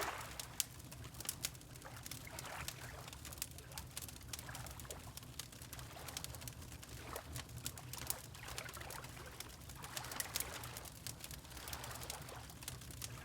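Wood fire crackling with frequent small pops, over water lapping in slow, soft swells every few seconds, with a low steady rumble underneath.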